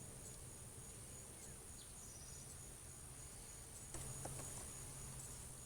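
Faint, steady high-pitched chorus of insects such as crickets, under a low steady hum from honeybees around the open hive. A light knock about four seconds in.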